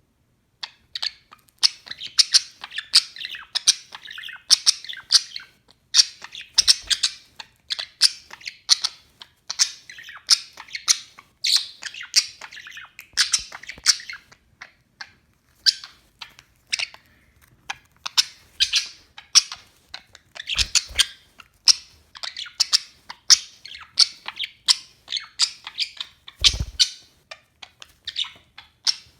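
Budgerigar warbling and chattering in a fast, continuous stream of short chirps and squeaks, starting about a second in. A soft low bump is heard near the end.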